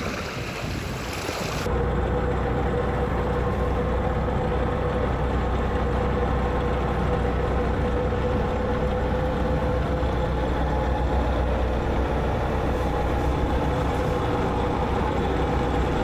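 Wind and sea noise, cut off suddenly about two seconds in by a boat engine running at a steady speed, with a deep drone and a steady hum.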